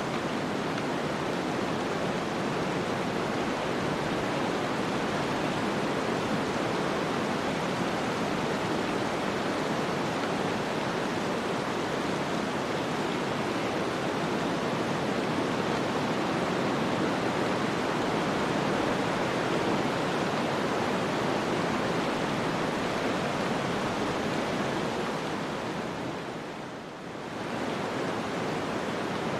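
Snowstorm wind, a steady, even rushing noise that dips briefly near the end and swells back.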